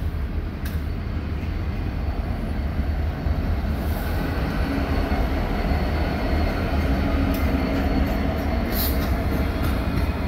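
CN freight train's EMD SD70M-2 diesel locomotives passing close, with a deep engine rumble and steel wheels on rail. The engine note grows stronger from about four seconds in as the locomotives come alongside, and a few sharp wheel clicks sound near the end.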